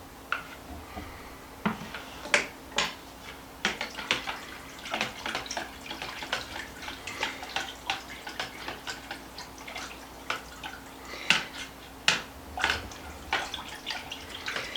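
A whisk beating cream of chicken soup with broth and water in a bowl: irregular clicks and taps of the whisk against the bowl, several a second, with liquid splashing.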